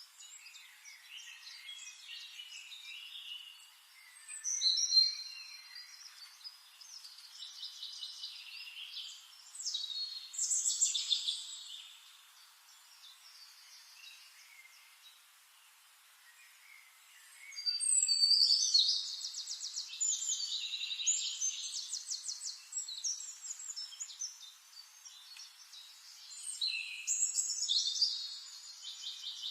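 Songbirds singing in a forest: bursts of high chirping phrases and fast trills, with a lull about halfway through before a loud trilled run of song.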